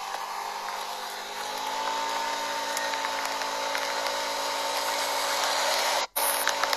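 High-pitched whine of a small vehicle engine under way, rising a little in pitch as it picks up speed and then holding steady, over a rush of wind. It cuts out for an instant near the end.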